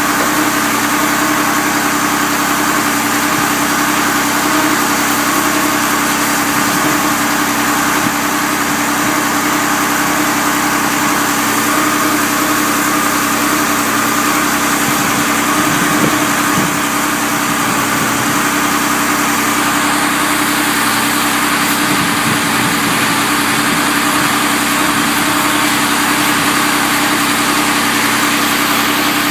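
Rebuilt Porsche 911SC 3.0 air-cooled flat-six engine idling steadily, at an even pitch and level.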